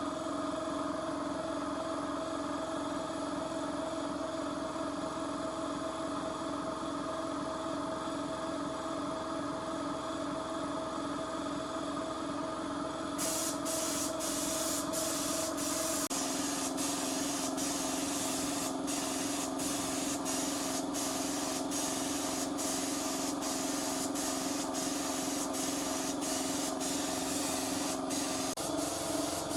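A steady mechanical hum that drops in pitch about sixteen seconds in. About thirteen seconds in it is joined by a hiss with regular sharp clicks, like spraying.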